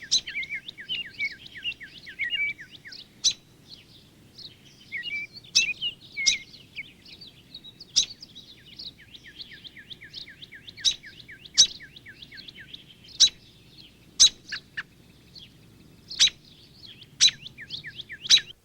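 Several songbirds calling together: fast runs of short down-slurred chirps that last a few seconds each, with loud sharp chip notes every second or so.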